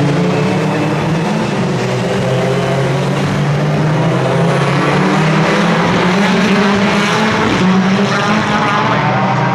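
Several racing car engines running hard on a circuit at once, their pitches rising and falling as they accelerate and change gear.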